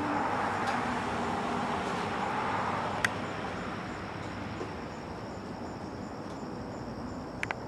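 Rushing noise of a passing vehicle that fades away after about three seconds, with a sharp click about three seconds in and a quick double click near the end.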